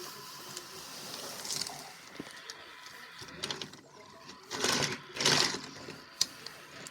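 Small electric motor of a battery-powered toy train whirring steadily. Two louder, short noisy bursts come a little past the halfway point.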